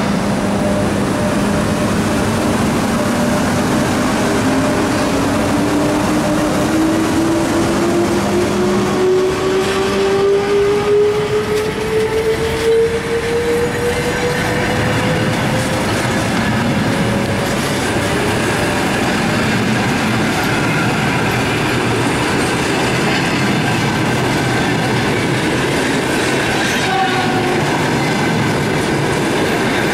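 An EP1M electric locomotive pulls out with an express train. Its electric whine rises steadily in pitch over the first half as it gathers speed, and the passenger carriages then roll past with a steady rumble of wheels on rail.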